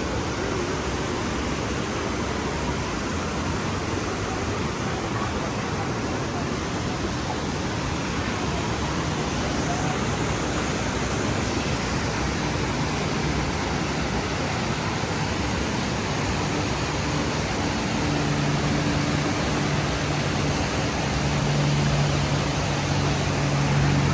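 Steady rushing of flowing water from a creek or waterfall. A low, steady hum joins it about halfway through and grows stronger toward the end.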